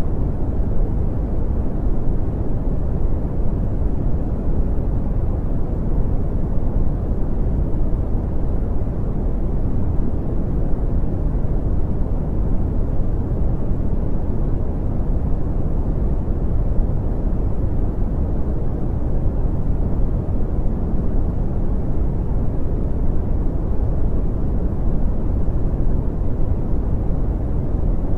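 Brown noise: a steady, deep, even rumble of hiss, strongest in the bass and fading off in the treble, with no changes.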